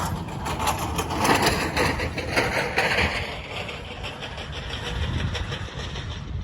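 Road traffic: a motor vehicle's engine running, louder over the first few seconds and then easing off.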